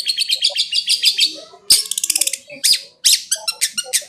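Long-tailed shrike (cendet) singing a fast, harsh, chattering song of rapid rattling trills and scratchy notes. There is a brief pause about a second and a half in.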